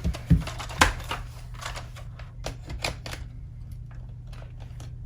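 Plastic parts of a cordless stick vacuum being handled and snapped together: a run of sharp clicks and light knocks as pieces lock into place, loudest in the first second and thinning out after about three seconds.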